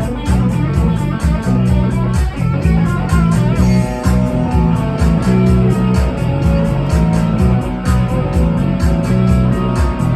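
Rock music with no singing: electric guitar and bass guitar over a steady drum beat.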